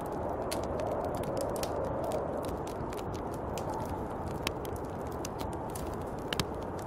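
Snowstorm wind blowing as a steady rushing hiss, with many small sharp crackles and ticks scattered over it and two louder clicks in the second half.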